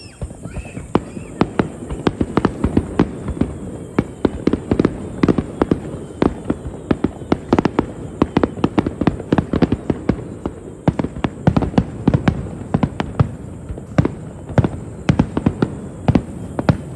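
Aerial fireworks bursting in a rapid barrage, many bangs a second overlapping one another over a steady rumble.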